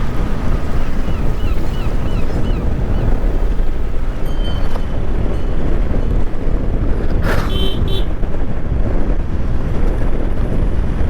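Motorcycle riding along a highway: steady rush of engine, road and wind noise, with a vehicle horn honking briefly about seven seconds in.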